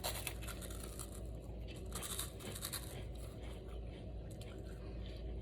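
Crunching and chewing of a chocolate-filled fish-shaped wafer (taiyaki), a run of small crisp crackles as the wafer is bitten and chewed.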